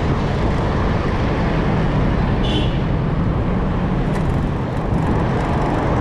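Wind rushing over the microphone of a chest-mounted camera on a moving bicycle, mixed with road traffic alongside: a steady, loud noise heaviest in the lows. A brief high squeak comes about two and a half seconds in.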